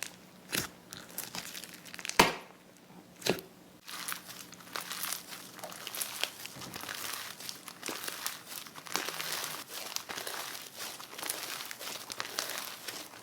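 Slime being squeezed and pressed, making a crinkly crackling. A few sharp pops come in the first few seconds, the loudest about two seconds in, then the crackling turns dense and continuous.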